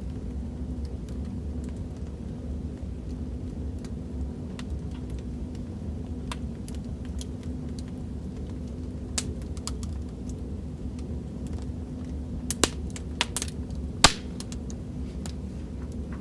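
Wood fire crackling: a steady low rumble of burning with scattered sharp pops and snaps. The pops come in a quick cluster a few seconds before the end, and the loudest snap comes about two seconds before the end.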